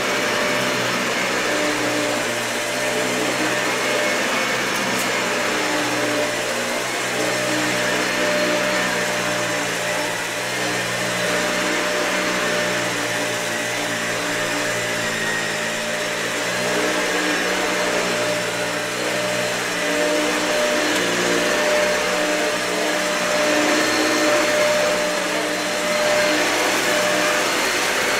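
Dyson vacuum cleaner running steadily over matted carpet, a constant motor whine with lower tones that shift and loudness that rises and falls a little.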